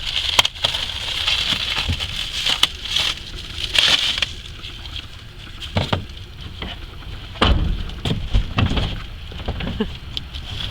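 Plastic wrapping crinkling and crackling as it is pulled off a flexible chimney liner, with a few dull knocks about three-quarters of the way through.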